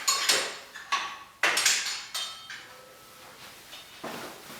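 A series of knocks and clattering handling sounds on a workbench, several with a short metallic ring; the busiest stretch is in the first two seconds, with one more clatter near the end.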